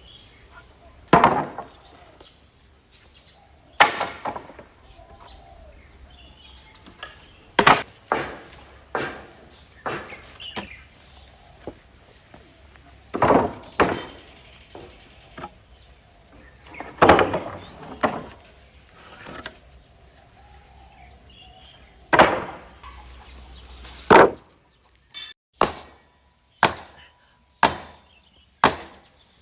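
Sharp knocks and clattering crashes of bricks and rubble being struck and tossed at a house demolition, one every two or three seconds. In the last few seconds they come faster, about one a second.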